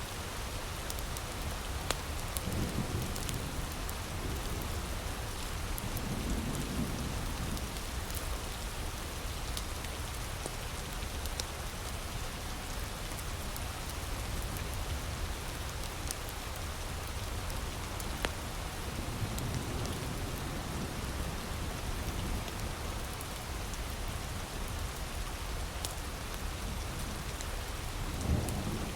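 Heavy rain falling steadily, with a few sharp crackles from a wood fire and several low rumbles that swell and fade.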